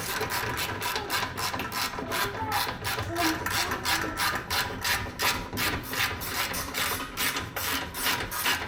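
Hand ratchet wrench clicking steadily at about four to five clicks a second as it runs nuts down on exhaust U-bolt clamps.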